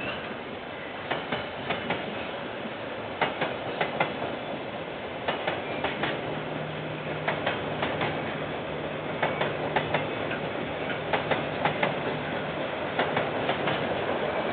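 A KiwiRail train's wheels rolling past over a steady rumble, clacking over rail joints in quick clusters of clicks every second or so. A low steady hum joins for several seconds in the middle.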